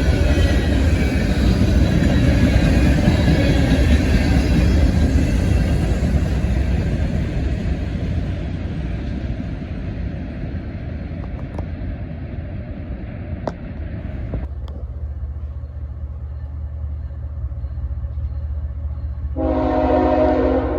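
Freight train rolling past, the rumble of its cars and wheels slowly fading away. Near the end a diesel locomotive's air horn starts blowing a steady multi-note chord.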